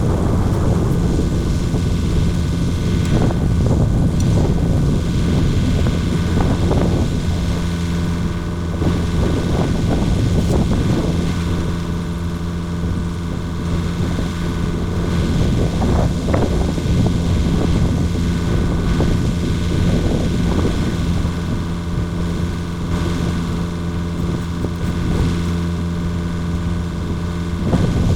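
Komatsu mini excavator's diesel engine running at a steady speed, its level dipping and rising a little.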